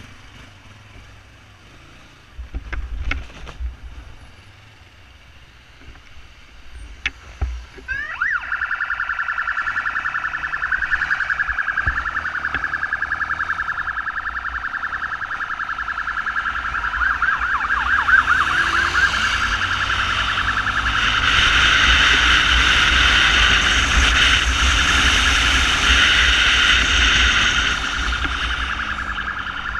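Emergency siren of a SAMU motorcycle ambulance switched on about eight seconds in: a loud, rapidly warbling wail, over a low rumble with a few clicks before it starts.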